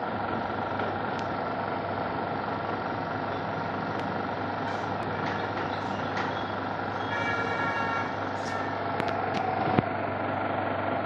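Truck's diesel engine running steadily, with a few light clicks and a single sharp knock near the end.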